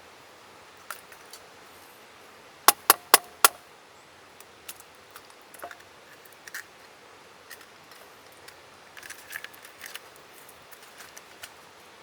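Camp-cooking handling sounds: scattered small clicks and taps of utensils and cookware, with four sharp knocks in quick succession about three seconds in, the loudest sounds here.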